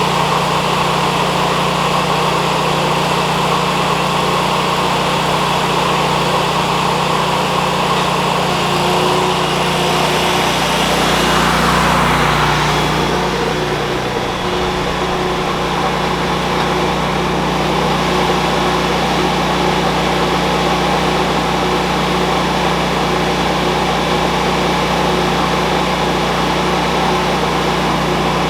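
An engine running steadily, swelling louder for a couple of seconds about halfway through, then settling back.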